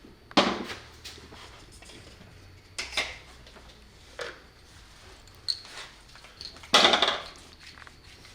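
Hand lamp parts being handled on a workbench: a handful of separate knocks and scrapes, the longest and loudest near the end.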